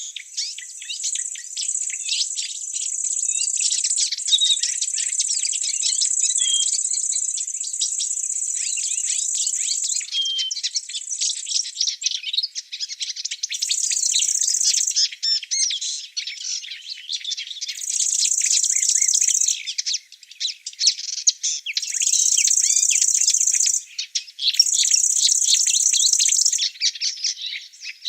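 Many songbirds chirping and twittering, over a high, steady insect buzz that runs unbroken for about twelve seconds and then comes and goes in stretches of a second or two.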